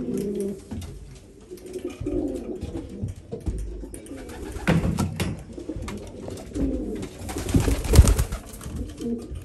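Racing pigeons cooing in a loft, several low coos overlapping. Two bursts of rustling break in, one about halfway and a louder one near the end.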